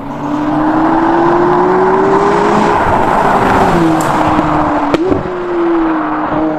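McLaren 570GT's twin-turbocharged V8 accelerating, its pitch rising steadily for nearly three seconds, then falling as the revs drop and holding steady. There is a single sharp click about five seconds in.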